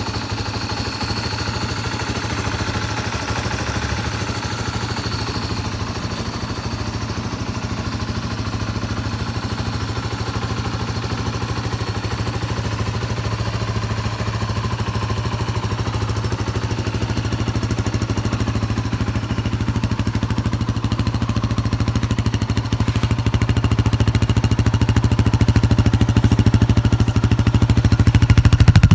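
Yamaha Serow 225's air-cooled single-cylinder four-stroke engine, fitted with a PWK28 carburettor, idling steadily and growing a little louder over the second half. It runs with no abnormal noise, which the seller takes as a sign of a healthy engine.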